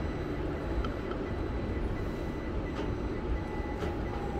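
Keio 1000 series electric multiple unit rolling slowly along a platform, heard from just behind the driver's cab: a steady running rumble with a few faint clicks, and near the end a faint whine slowly falling in pitch as the train slows.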